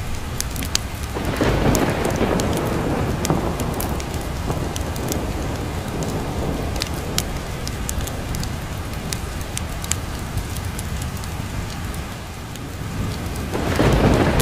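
Steady heavy rain with rolls of thunder, one swelling about a second in and fading over a few seconds, another building near the end. Scattered sharp ticks sound over the rain.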